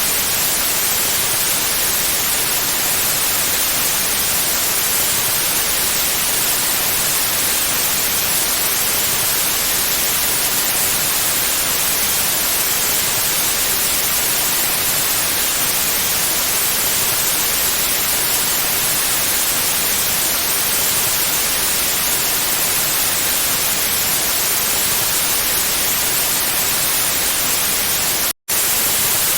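Steady, even white noise hiss, brightest in the high treble, with a split-second dropout to silence near the end.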